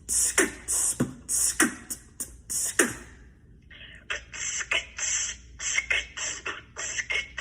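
Vocal beatboxing. It opens with deep kick-drum sounds that drop in pitch, about one a second, under hissing hi-hats. About halfway through it switches to a quicker pattern of sharp snare and hi-hat sounds.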